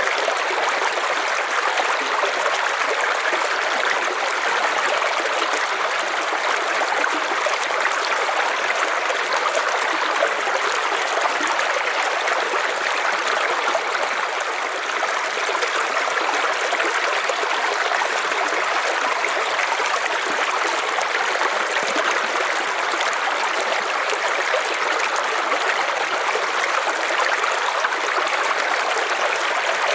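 River water flowing and babbling in a steady, even rush, with no breaks or changes.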